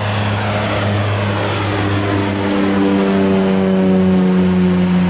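Propeller aircraft running at high power on its take-off run, a steady drone whose pitch sinks slightly as it grows louder through the middle.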